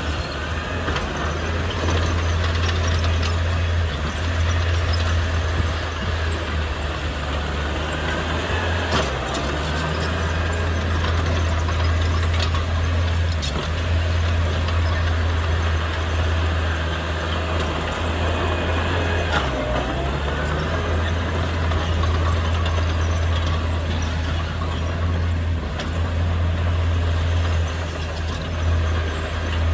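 Heavy diesel engine of earthmoving machinery running under shifting load, a loud low drone that changes pitch a little now and then, with a few sharp metallic clanks.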